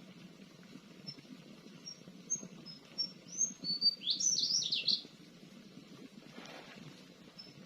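Small birds chirping: scattered single high chirps, then a louder run of quick rapid notes about four seconds in, over a low, continuous rustling background.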